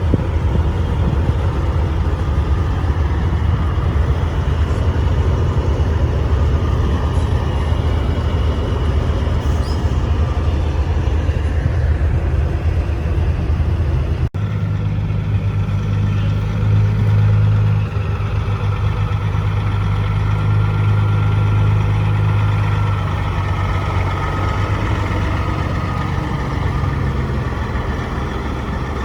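Heavy truck diesel engines running steadily with a low drone. An abrupt cut about fourteen seconds in switches to another engine idling, which swells briefly a few seconds later.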